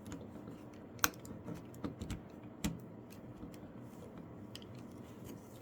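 Plastic toy parts of a transforming robot figure being handled and pushed together: soft rubbing with a few small clicks and knocks, the sharpest about a second in and again after two and a half seconds.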